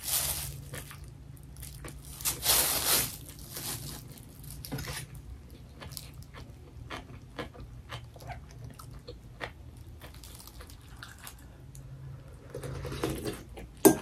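Mouth sounds of eating bibimbap: chewing and crunching, with scattered small clicks of a metal spoon against the bowl and soup container. A louder burst of noise comes about two and a half seconds in.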